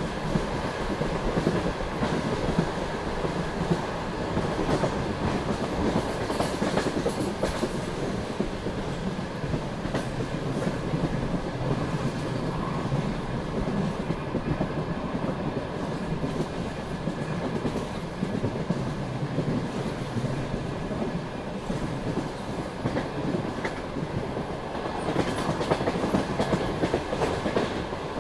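Express passenger train running at speed: a steady rumble of wheels on the rails, with the clickety-clack of the wheels passing over rail joints.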